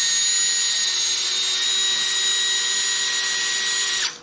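Cordless drill spinning a 500-grit sanding pad against a plastic headlight lens during wet sanding: a steady high motor whine with a sanding hiss, cut off suddenly near the end as the drill is released.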